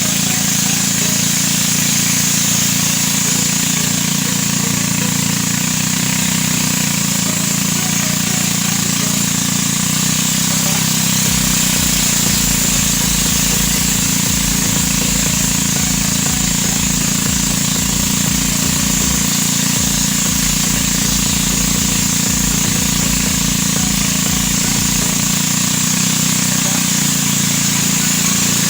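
A small engine running steadily at a near-constant speed, with a rough low rumble through the middle and a constant hiss over it.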